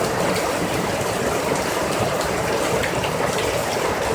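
Heavy rain pouring down in a steady, dense hiss, splashing into pooled rainwater.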